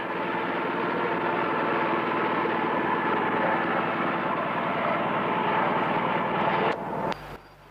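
An engine running steadily, cut off abruptly with two sharp clicks near the end, after which only a faint low hum remains.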